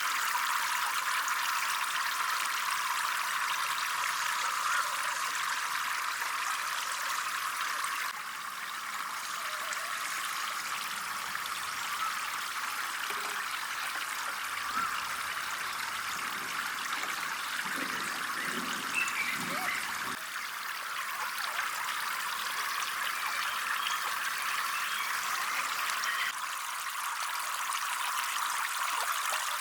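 Water trickling and flowing steadily, a continuous splashing hiss; it shifts abruptly in level a few times.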